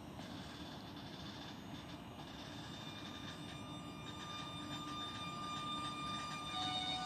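Train approaching, growing gradually louder, with several steady high whining tones over the rumble.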